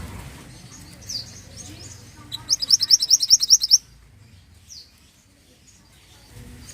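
Mantenan songbird singing: scattered high chirps, then a loud rapid trill of about ten quick notes a second lasting over a second, then a single chirp.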